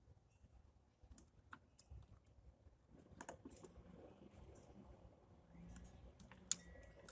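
Scattered light clicks and taps of hand-worked parts around a car headlamp being pulled loose: a few about a second in, a louder cluster around the middle, and one sharp click near the end.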